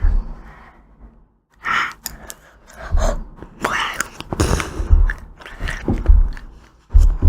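Close-miked eating of ice cream: biting and chewing with crackling crunches and wet mouth sounds, pausing briefly about a second in.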